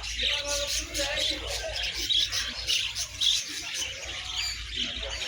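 Many caged songbirds chirping and squawking at once, a dense mix of short high calls, with people's voices under them.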